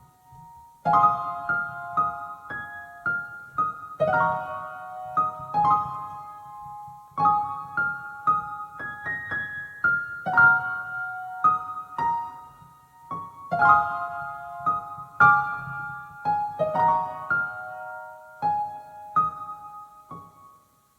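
Solo piano playing slow chords as the song's instrumental close, the last chord dying away near the end.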